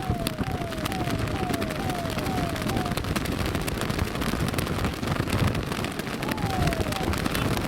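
Electronic siren sounding a repeated falling yelp, about two short downward sweeps a second, then a single longer falling tone near the end, over a steady rush of wind and road noise.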